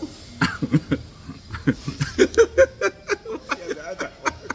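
People laughing and chuckling in short bursts, loudest near the middle.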